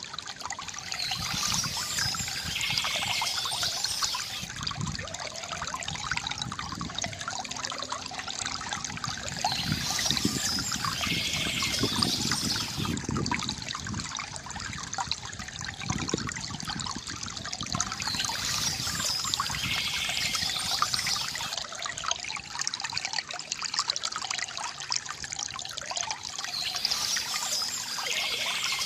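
Stream water trickling and flowing steadily. A higher bird-like phrase recurs about every eight and a half seconds, four times.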